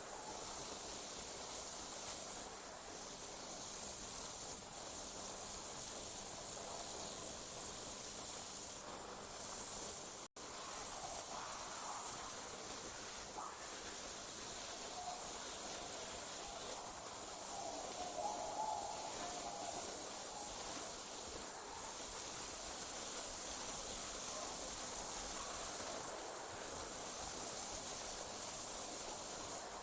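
Crickets trilling at night in a steady, high-pitched chorus that breaks off briefly every few seconds.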